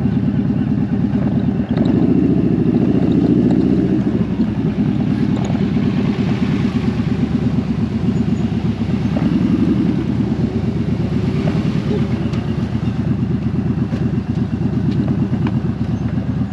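Motorcycle engine running steadily under way, its level rising a little twice as the throttle opens.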